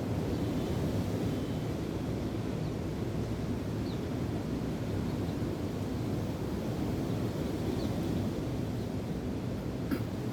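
Steady rumble of wind and breaking waves, with a few faint, short, high bird chirps and a single sharp click near the end.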